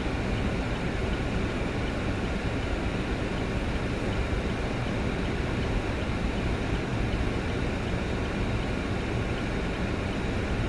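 Steady road and engine noise inside a moving vehicle's cabin, an even rumble with no distinct events.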